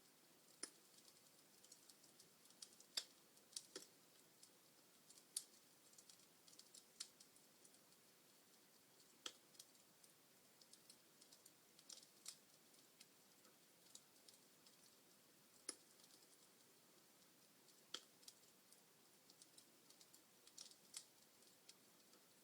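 Wood fire crackling in a fireplace: irregular sharp pops and snaps, a few of them louder, over a faint hiss.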